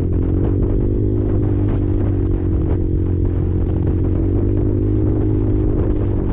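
Quad engine running at a steady, slightly wavering speed, with scattered clatter from the machine over rough ground.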